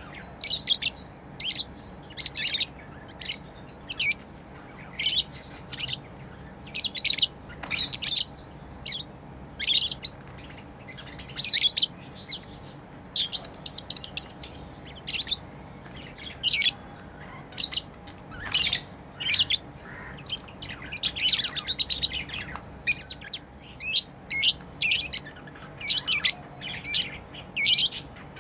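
Pet lovebirds chirping: short, sharp, high chirps in quick clusters, one after another with brief gaps between.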